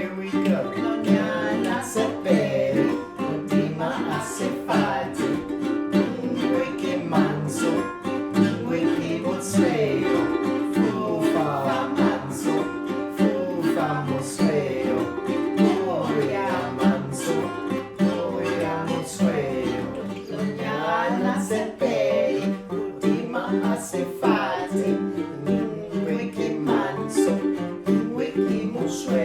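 Singing of a Sesotho song over a plucked string instrument accompaniment that keeps a steady groove.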